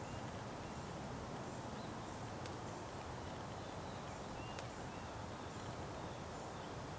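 Small birds chirping now and then, short high calls over a steady low background rush, with a few faint clicks.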